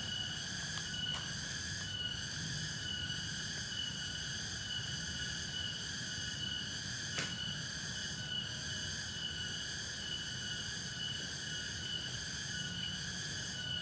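Steady chorus of insects: several high-pitched tones held level with a slight pulsing, with two sharp clicks, one a second in and one about seven seconds in, and a low rumble underneath.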